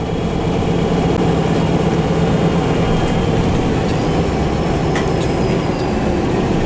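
Steady engine and road rumble inside a moving bus, with a faint high whine drifting in pitch.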